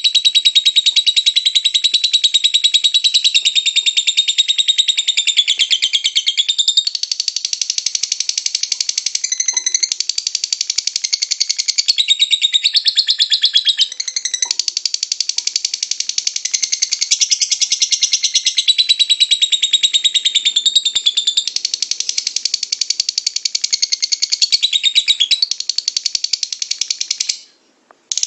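Lovebird singing a long, rapid chattering trill ('ngekek'), high-pitched and almost unbroken, with the pitch shifting every second or two. It breaks off abruptly near the end.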